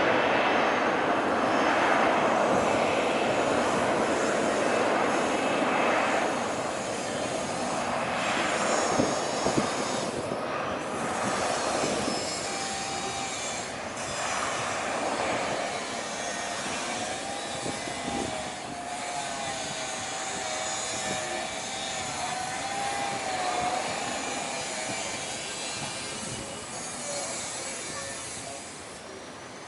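Jet airliner engines roaring as a plane passes, loudest at the start and fading away gradually.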